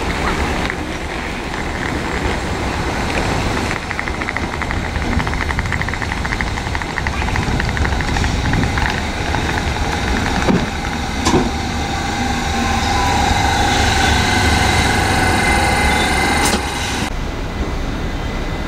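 London Underground S7 stock electric train running into the platform: a steady rumble of wheels on rail, with a few sharp clicks and a high whine from the train in the later part. The sound changes abruptly near the end.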